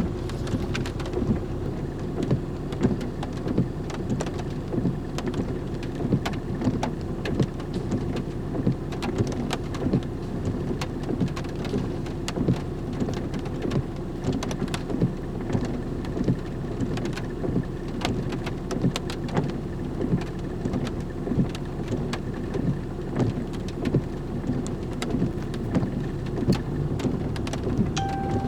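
Rain pattering on a surface, with a constant scatter of sharp drop ticks, over the steady low hum of an idling engine.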